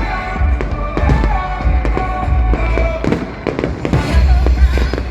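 Fireworks bursting in a rapid series of bangs and crackles, with deep booms, over loud music.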